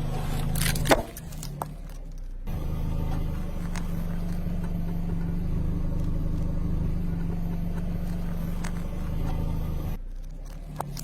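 A car's engine running slowly with a steady low hum, and a single sharp crack about a second in as an object is crushed under a tyre.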